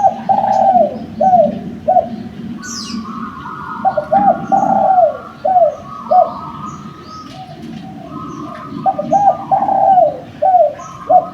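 Derkuku (spotted dove) cooing: three phrases of several falling coo notes each, about four seconds apart. Faint chirps of small birds are heard behind.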